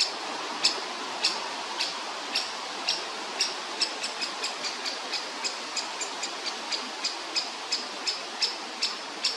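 Woodpecker chick giving short, sharp, high-pitched begging calls for food. The calls come about every half second at first and quicken to three or four a second from about four seconds in, over a steady hiss.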